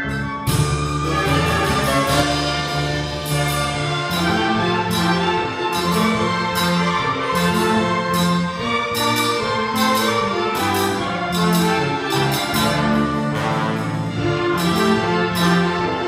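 A symphony orchestra with strings and brass playing, the full ensemble coming in loudly about half a second in over a steady beat.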